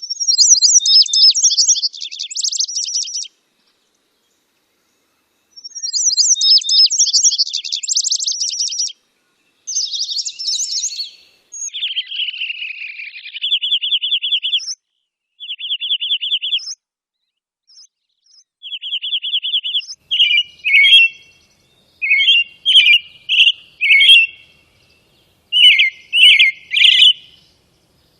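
A series of songbird songs, edited one after another with clean silent gaps between them: high fast trilled phrases in the first ten seconds, then a buzzy falling note followed by short dry trills, and from about twenty seconds on a run of quick separate chirped phrases.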